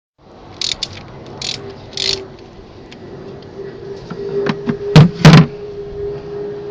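Hand tools clicking and knocking against metal as a wire is undone from the outboard motor's electrical connections, with two loud sharp knocks about five seconds in. A faint steady hum runs underneath.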